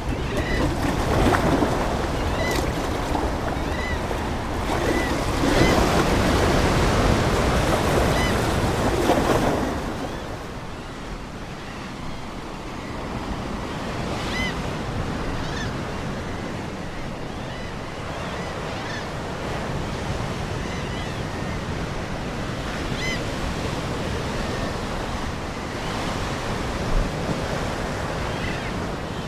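Ocean surf: waves surging and washing in, heaviest in the first ten seconds, then settling to a softer, steady wash. Short high seagull calls sound here and there throughout.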